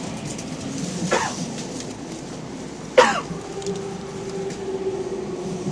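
Mitsubishi three-level IGBT VVVF inverter of a Tokyo Metro 6000 series train, the unusual-sounding version found only on sets 6118F and 6101F, heard inside the car as the train brakes. There are two short falling sweeps, a faint one about a second in and a loud one about three seconds in, then a steady tone that slowly drops in pitch.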